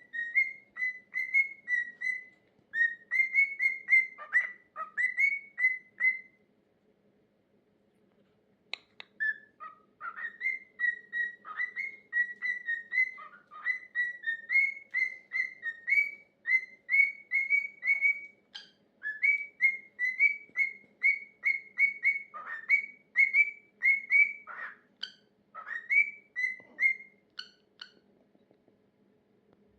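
Pet cockatiel whistling its own song: a quick run of short whistled notes near one pitch, about two or three a second. It breaks off for a couple of seconds, then goes on again and stops shortly before the end.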